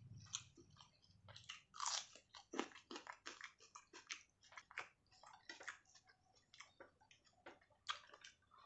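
Close-miked eating sounds: a person chewing and biting food, with irregular crisp crunches and wet mouth clicks several times a second.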